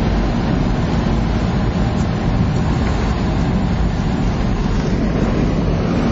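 1991 Blazer driving through snow: a steady, loud rumble of engine and running gear that does not let up.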